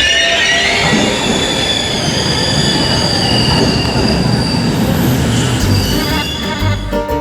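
Passenger train on the rails, with a high-pitched metallic wheel squeal of several steady tones over the running noise. Music comes in near the end.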